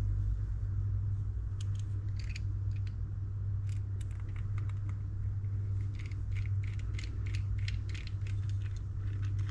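Light, irregular clicks and taps of small metal parts of a Daiwa Catalina 6500H spinning reel being handled and fitted into the reel, starting about a second and a half in and coming thicker towards the end, over a steady low hum.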